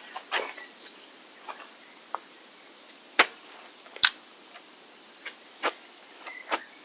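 Irregular, sharp clicks and light knocks, about a dozen of them spaced unevenly, the loudest two around three and four seconds in.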